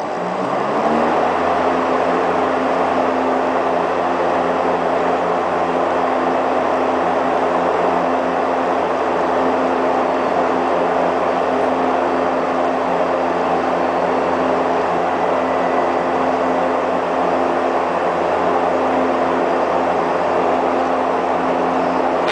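24-inch Dayton industrial exhaust fan coming up to speed, its pitch rising over the first second, then running steadily with a low motor hum under a loud rush of air.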